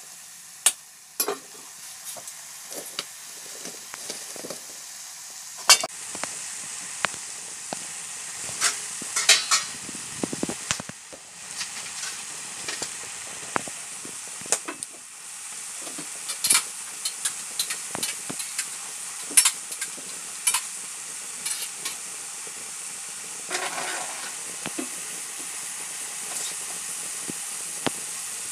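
Shredded mushrooms sizzling in a wok, a steady frying hiss, while a spatula stirs them and scrapes and taps against the pan in scattered clicks.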